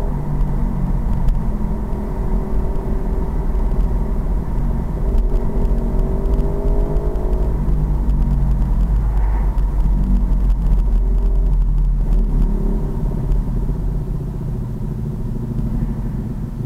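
Pit bike engine running on the move, its pitch climbing as it accelerates through the first half, over a heavy low rumble.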